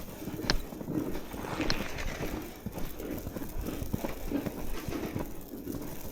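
Footsteps crunching through fresh snow at a walking pace, with two brief high squeaks in the first two seconds.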